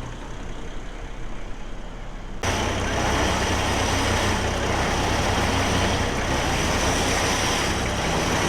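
A motor vehicle's engine running steadily, with a low hum and broad noise that jump suddenly louder about two and a half seconds in.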